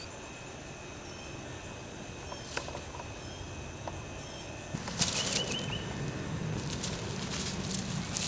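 A caught bird's wings flapping and fluttering in rapid bursts, starting about five seconds in, as it struggles against the cat.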